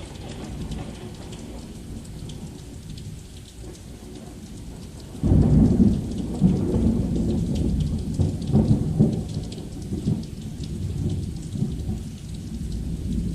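Heavy rain falling steadily, with a crack of thunder about five seconds in that rumbles on in several swells for a few seconds.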